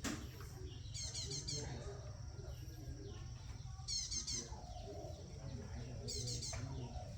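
A small bird singing three short bursts of rapid high chirps, about a second, four seconds and six seconds in, over a steady low hum.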